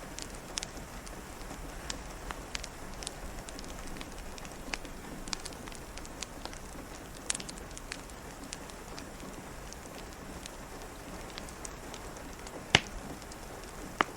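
Steady rain pattering, with a wood fire crackling over it in scattered sharp pops; one pop about three-quarters of the way in is much louder than the rest, and another comes near the end.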